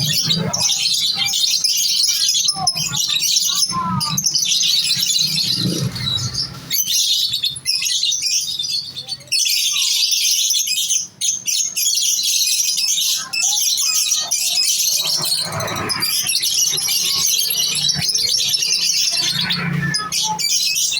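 Many caged lovebirds chattering together in dense, continuous, high-pitched chirps and squeaks.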